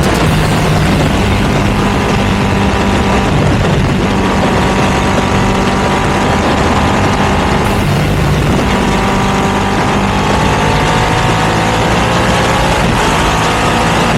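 Ducati V2 motorcycle's twin-cylinder engine running through a Termignoni exhaust at a steady pace. Its pitch rises slowly over the last few seconds.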